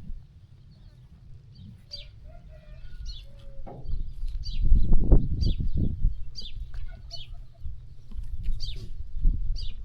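A small bird chirping repeatedly, short high chirps about once a second, over a steady low rumble. The rumble grows louder for a couple of seconds around the middle.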